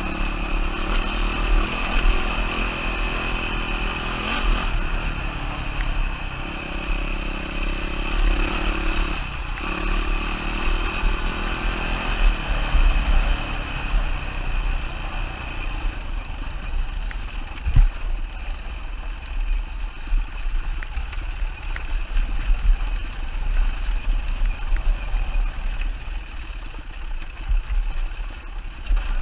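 2007 Yamaha WR450's single-cylinder four-stroke engine running on a rough trail, its pitch rising and falling with the throttle. There is a single knock about eighteen seconds in.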